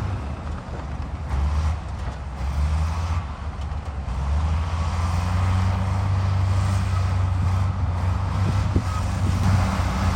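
Heavy diesel engines of a bulldozer and dump truck running, a deep steady drone that grows louder and steadier about four seconds in.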